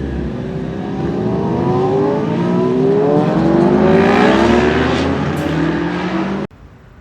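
A vehicle engine accelerating hard, its pitch climbing and growing louder for several seconds, then cutting off abruptly near the end.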